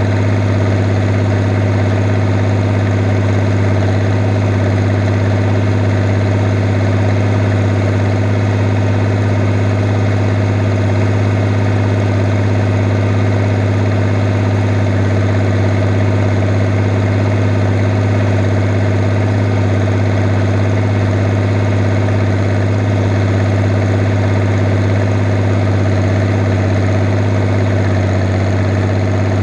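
Fiat 110-90 tractor's diesel engine running at steady, unchanging revs while pulling a plough through the field.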